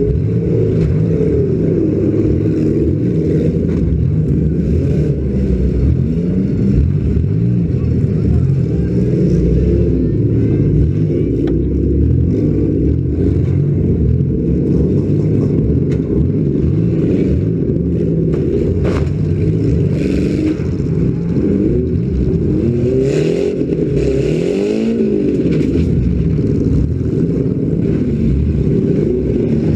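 Bone-stock demolition derby car's engine running loud close up, revving up and down as the car drives and turns, with a couple of sharp metal knocks.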